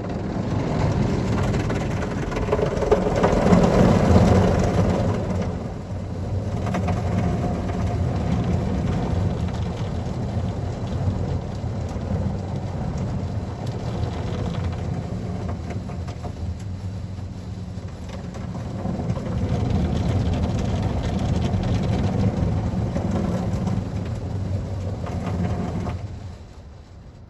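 PDQ Tandem SurfLine in-bay automatic car wash running, with water spraying onto a car over the machine's steady pump and motor hum. It swells twice and cuts off sharply near the end.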